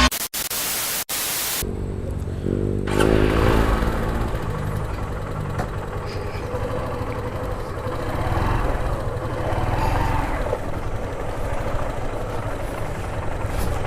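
Honda Unicorn 150's single-cylinder engine running steadily under way, with wind on the microphone. A loud steady hiss, cut out twice, fills the first second and a half before the engine comes in.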